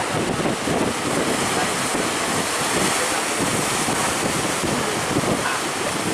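Large surf breaking and rushing, with wind buffeting the microphone in a steady roar of noise.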